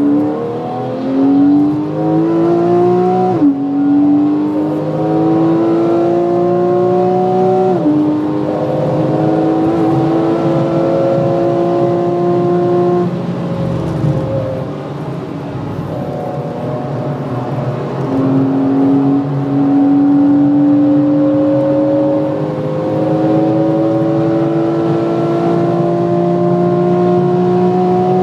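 Porsche 991 Carrera 3.4's flat-six engine under hard acceleration, heard from inside the cabin: the pitch climbs through each gear with two quick upshifts in the first eight seconds. About halfway through the driver lifts and the note falls and runs lower for a few seconds, then the engine pulls again in a long steady rise.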